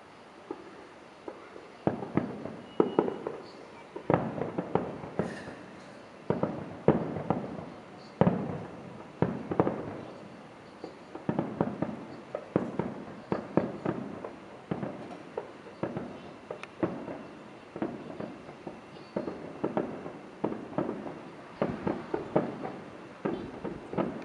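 Fireworks display: aerial shells bursting in a rapid, dense barrage of bangs and crackles, several a second, each trailing off in an echo. It starts about two seconds in after a quieter moment with a single pop.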